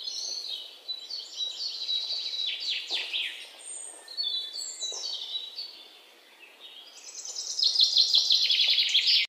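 Songbirds chirping and trilling in quick high notes, fading a little past the middle and loudest near the end with a fast run of repeated notes, then cutting off suddenly.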